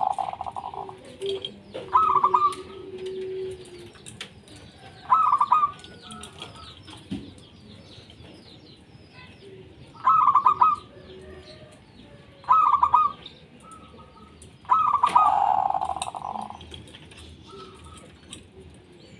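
Zebra dove song: short, rapid rippling cooing phrases repeated every few seconds, with faint chirps of other small birds.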